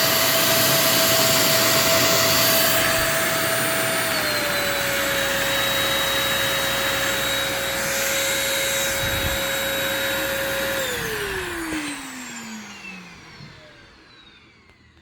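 Euro Pro EP601 900-watt stick vacuum running with a steady high whine. About four seconds in the pitch dips slightly, and about eleven seconds in the motor is switched off and winds down, its whine falling in pitch and fading over a few seconds.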